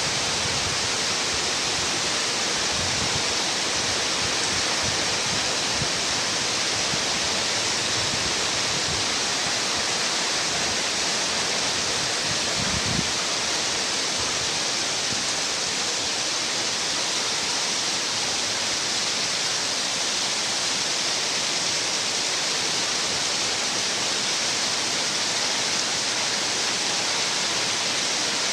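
Heavy rain falling, a steady dense hiss that does not let up, with one brief low thud about 13 seconds in.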